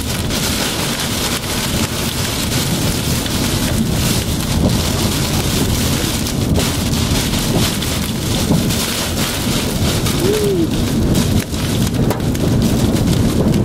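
Heavy thunderstorm rain hitting a car's windshield and roof, a dense steady hiss over a low rumble.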